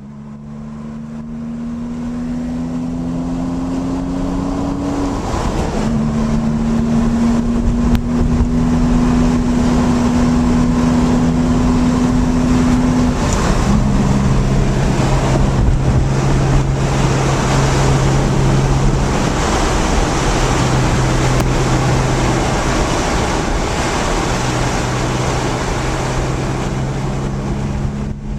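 Porsche 911's flat-six engine pulling the car at speed, heard over heavy wind and road noise. Its note climbs slowly and steps down at gear changes about five and thirteen seconds in.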